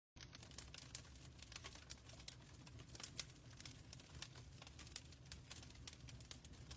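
Fireplace fire crackling, with frequent sharp pops and snaps over a low steady rumble of the flames. It cuts in abruptly right at the start and is faint throughout.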